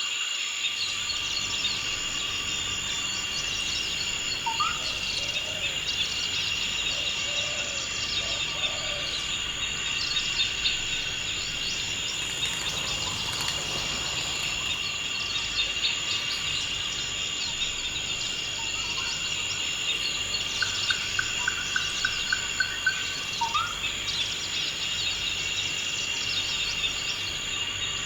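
Forest ambience: a steady, high insect chorus runs throughout, with occasional bird calls over it. A short rising whistle comes a few seconds in, and a quick run of repeated notes about three quarters of the way through is followed by another rising whistle.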